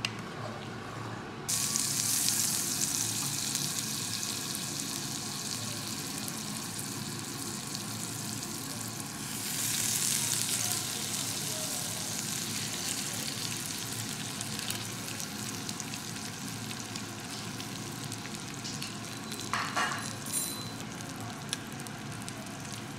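Chicken breast fillets sizzling in butter and oil on a cast-iron hot plate: a steady frying hiss that starts up suddenly about a second and a half in and swells again around ten seconds. A few brief knocks about twenty seconds in.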